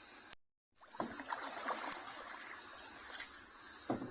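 Steady, high-pitched chorus of night insects in a tropical mangrove, cutting out completely for about half a second near the start. Under it, faint paddle and water sounds from a kayak, with a light knock near the end.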